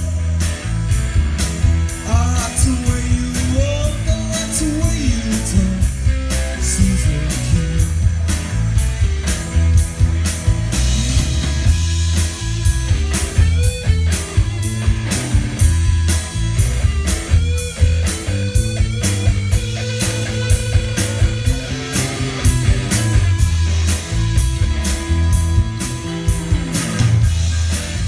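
Live rock band playing a bluesy rock song: guitar lines with bent notes over a bass line and a steady drum beat.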